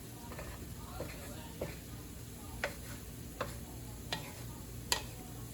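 Onions cooking in butter in a covered pan: a faint sizzle with about six light, irregular clicks and ticks.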